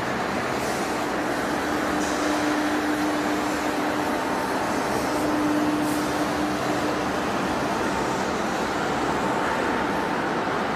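Steady industrial machinery noise, an even rushing din with a faint hum that comes and goes.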